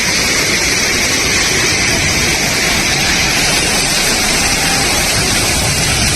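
Fast-flowing floodwater rushing past, a loud, steady, unbroken hiss.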